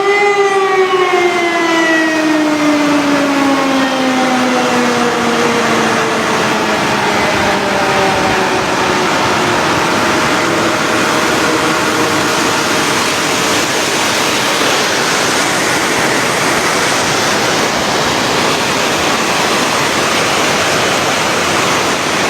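A warning siren winding down, its pitch falling steadily and fading out by about halfway, over the steady roar of water rushing through a dam spillway.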